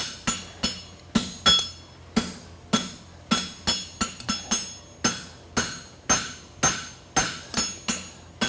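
Farrier's hand hammer striking hot concave bar steel on an anvil, a little over two blows a second, some in quick pairs, each blow followed by a bright ring. The end of the bar is being feathered thin for a forge weld.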